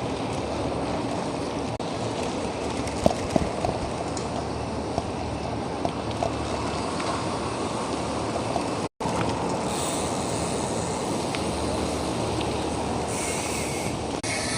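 Steady rushing wind and road noise while riding a bicycle, with a few faint clicks about three seconds in; it cuts out for an instant about nine seconds in.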